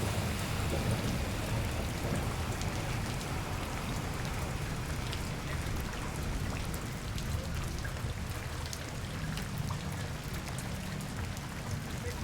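Steady rain falling on a city street, with scattered sharper drop hits and a low rumble underneath.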